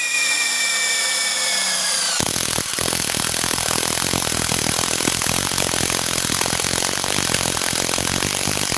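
Stanley SBI201 18 V cordless impact driver: its motor starts with a high whine that sags in pitch for about two seconds as the load builds. Then the impact mechanism kicks in with a rapid, continuous hammering rattle, driving the fastener under load.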